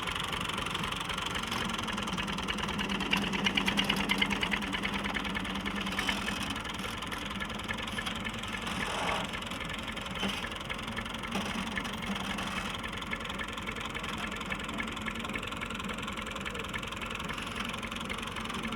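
Vehicle engine running steadily at idle with a rapid, even rattle of firing strokes, slightly louder for a second or so about three seconds in.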